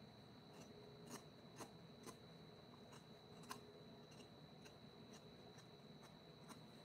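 Near silence with a few faint, sharp clicks spread over several seconds, and a steady faint high-pitched whine underneath.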